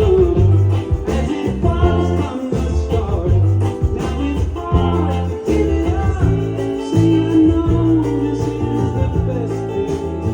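Live band music: guitar over bass and a steady drum beat.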